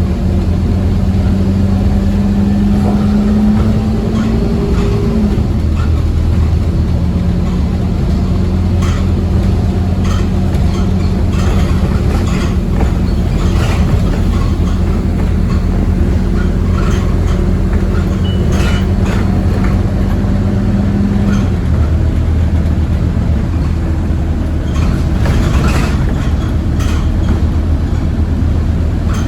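Scania OmniCity bus heard from inside the saloon while under way: engine and drivetrain running steadily over road rumble, with short rattles and knocks from the bodywork. The engine note rises over the first few seconds, steps about five seconds in, and drops away about 21 seconds in, leaving mainly the rumble.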